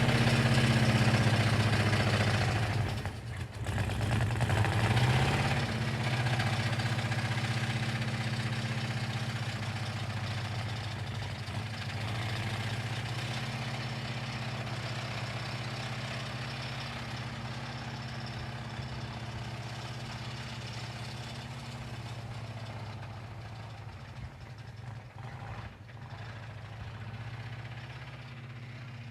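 A blown, internally damaged engine idling. It dips briefly about three seconds in, then grows steadily fainter.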